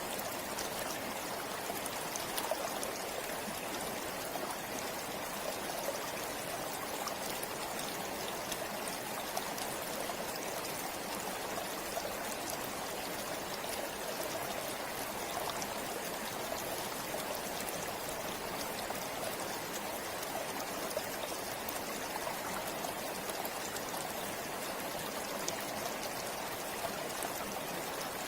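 Forest river flowing steadily: an even rush of water with small splashes and trickles throughout.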